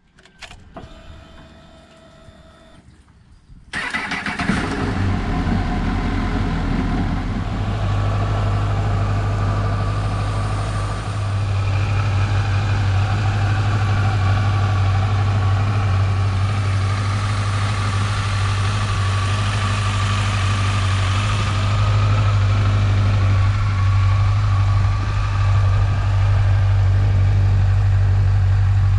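Honda CBF1000's inline-four engine being started: a quieter whine for the first few seconds, then the engine catches suddenly about four seconds in and settles into a steady idle.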